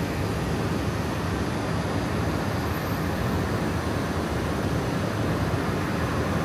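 Steady rumble and hiss of a train running.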